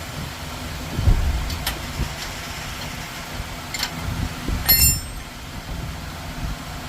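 A low, steady rumble with a few sharp clicks, and a ringing metallic clink near five seconds in, like metal parts or tools being handled during brake work.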